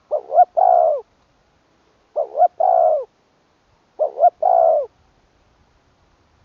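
A spotted dove cooing three times, about two seconds apart. Each call is two short notes followed by a longer, slightly falling coo.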